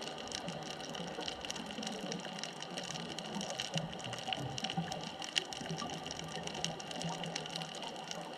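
Underwater ambience recorded at depth: a steady hiss with many faint scattered clicks and an irregular low gurgling.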